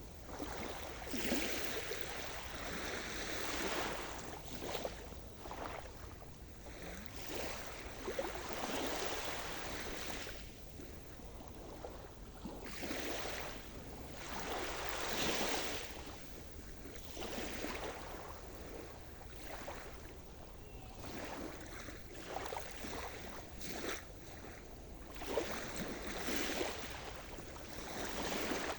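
Sea surf: waves breaking and washing up the shore as a hiss that swells and fades every few seconds, with a few stronger washes.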